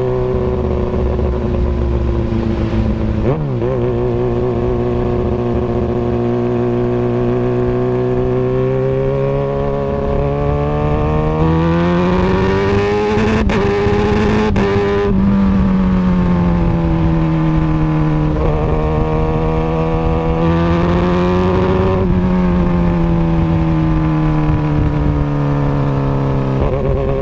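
Kawasaki Ninja ZX-636 inline four-cylinder engine through an Austin Racing aftermarket exhaust, running with a short blip early on. Its revs then climb slowly for several seconds, with a couple of sharp cracks near the top, before falling back, and later rise and ease off again more gently.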